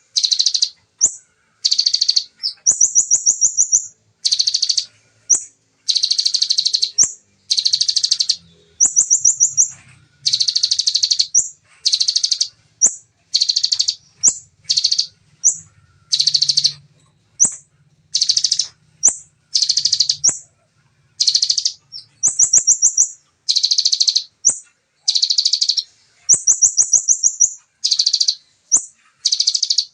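Bar-winged prinia (ciblek) singing a fast, tightly packed run of high, rattling song bursts, each a second or less long, alternating with short thin trills, with hardly a gap between them.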